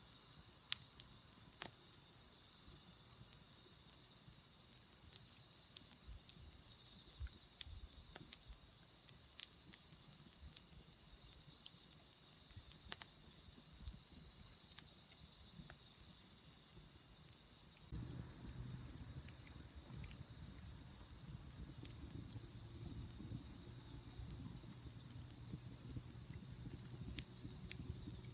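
Crickets trilling in a steady high chorus, with scattered sharp clicks. About two thirds of the way in, a low steady hum sets in underneath.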